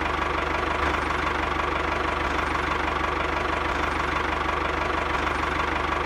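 Small electric motor running steadily with an even, rapid buzz.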